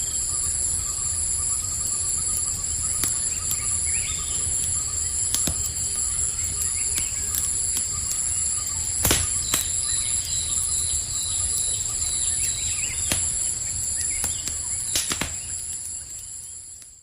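Campfire crackling with scattered sharp pops, the strongest about 9 and 15 seconds in, over a steady high drone of night insects such as crickets and a few short chirps. The sound fades out at the end.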